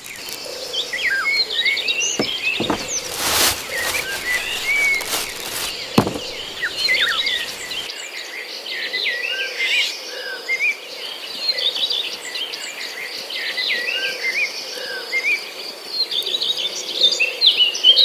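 Many small birds chirping and whistling together in a continuous chorus, over a faint steady insect drone. A few sharp knocks and a short rush of noise come in the first six seconds.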